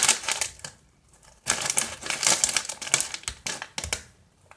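Plastic snack pouch being crinkled and torn open by hand: two stretches of crackly rustling about half a second apart.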